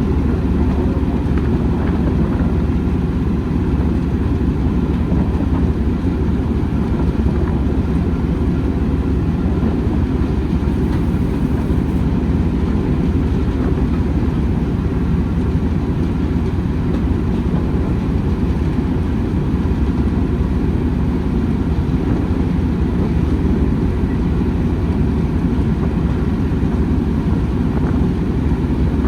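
Steady low rumble of a moving train, unbroken and even in level.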